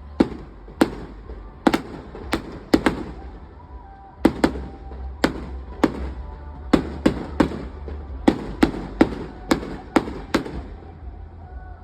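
Fireworks going off: a string of about twenty sharp bangs at irregular intervals, some coming in quick pairs, each trailing a short echo.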